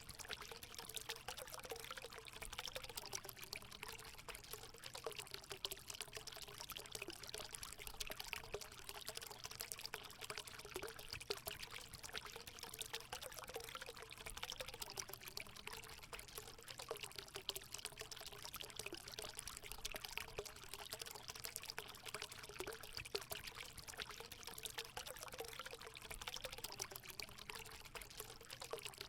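Hot spring water pouring and trickling steadily into a pool, a continuous splashing with a gurgling burble.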